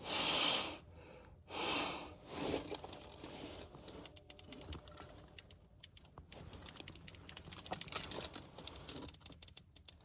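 Two breathy rushes of noise in the first two seconds, then a long run of light clicks and taps as a smart key and the car's buttons are fumbled with; the engine does not start, the key too cold for the car to register it.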